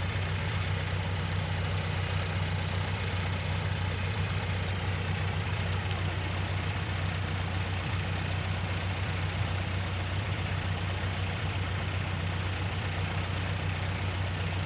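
Farm tractor diesel engine running steadily, a low, even drone that does not change pitch.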